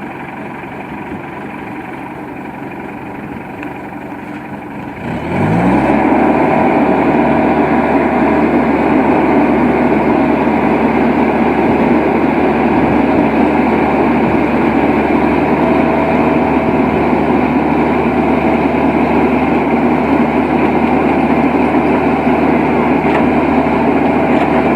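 A heavy truck engine runs steadily at a low speed. About five seconds in it revs up and then holds at a much louder, steady high speed.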